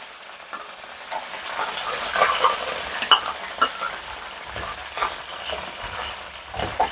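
Peanuts frying in hot oil in a kadai: a steady sizzle with scattered crackles and pops. Near the end a metal spatula stirs them, clinking against the pan.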